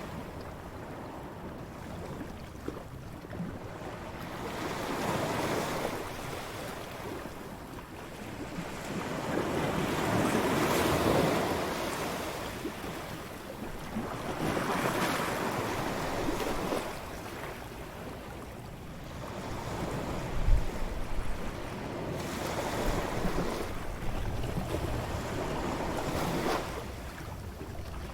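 Waves breaking on a beach, the surf swelling and fading every four to five seconds. A short low thump stands out about two-thirds of the way through.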